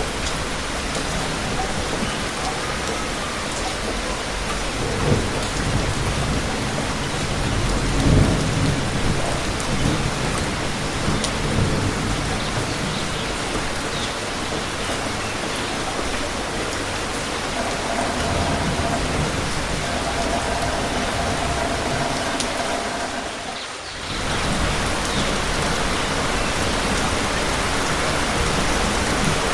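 Steady rain pattering, with low rumbles of thunder in the first half. The sound dips briefly about three-quarters of the way through, then the rain resumes.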